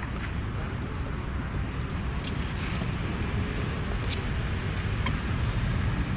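Steady low rumbling background noise with a few short, faint clicks scattered through it.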